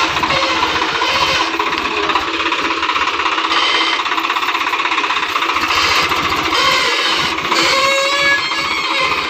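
Swaraj 735 XT tractor's diesel engine running steadily with a fast, even firing rhythm.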